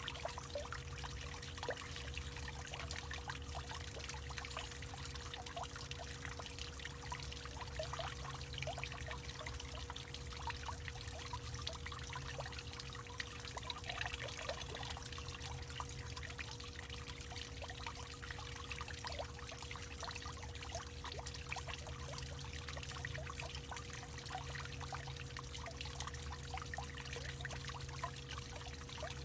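Water trickling and pouring steadily, with many small irregular splashes and plinks, over a faint steady hum.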